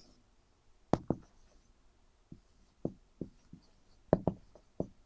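Writing on a lesson board: a string of about nine sharp, uneven taps and knocks, two close pairs standing out about a second in and just after four seconds in.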